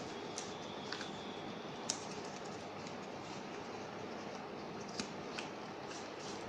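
Sheet of paper being folded and creased by hand, a few crisp crackles and clicks over a steady hiss.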